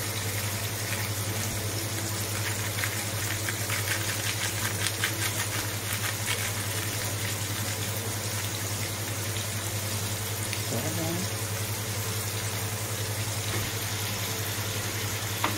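Onion-tomato masala frying in oil in an aluminium pot: a steady sizzle over a low steady hum. Light crinkling of a foil spice packet comes and goes in the first half.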